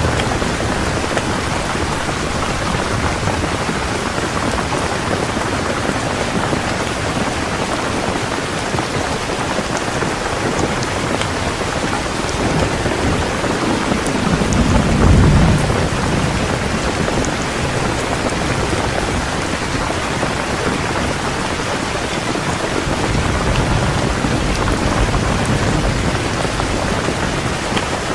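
Heavy rain pouring steadily, with a low roll of thunder swelling and fading about halfway through.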